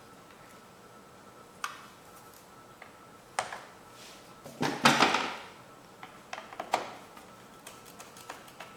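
Hand tools and small metal parts being handled: a few sharp clicks and one louder clattering rattle about five seconds in.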